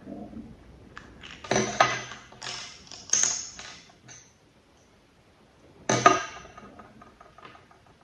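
Hard metal parts clinking and clattering as they are handled and set down, in bursts of a few knocks each, with a short ring after each one. The loudest are about a second and a half in and again near six seconds.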